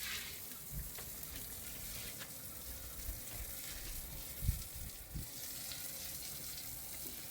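Steady hiss with low rumble and a few short low thumps, the loudest about four and a half seconds in.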